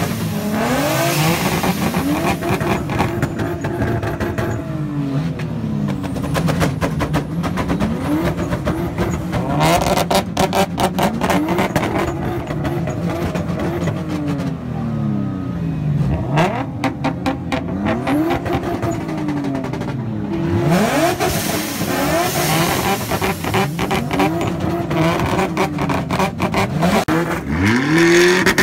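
Nissan 350Z's V6 engine revved hard again and again while parked, the pitch climbing and dropping back every second or two, with stretches of rapid crackling between revs.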